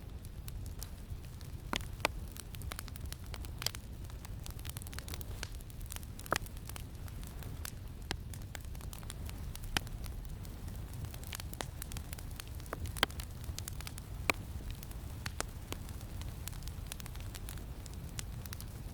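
Wood fire crackling, with sharp pops at irregular intervals, over a steady low rumble of wind.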